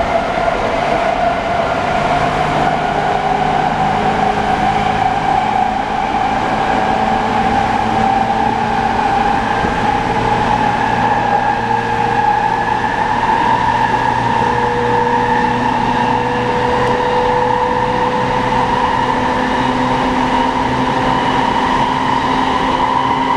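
Tokyo Waterfront Area Rapid Transit 70-000 series train running under its VVVF-IGBT inverter drive, the traction motor whine rising slowly in pitch as it gathers speed, over steady rail running noise.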